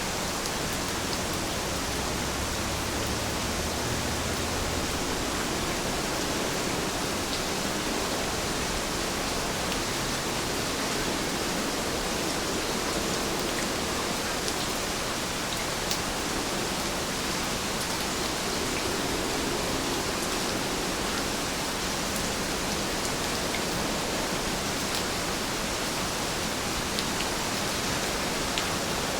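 Steady rain: an even hiss with occasional sharp ticks.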